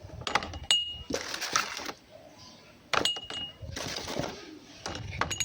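Drinking glasses being handled and knocked together: several light clinks, two of which ring briefly with a clear high tone, one within the first second and one near the middle.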